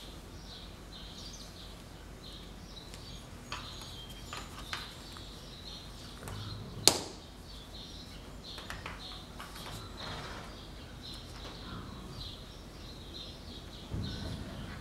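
Small birds chirping over and over, with a few faint clicks and one sharp, loud click about seven seconds in.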